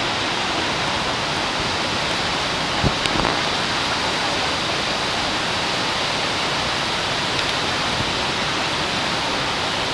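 Gullfoss waterfall's steady, dense rush of falling water. A brief knock sounds about three seconds in.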